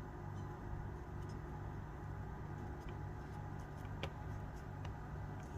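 Steady low background hum with a few faint light clicks, the clearest about four seconds in.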